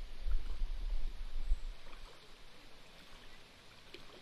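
Wind buffeting the microphone: a low rumble that dies away about two seconds in, leaving a faint outdoor hiss.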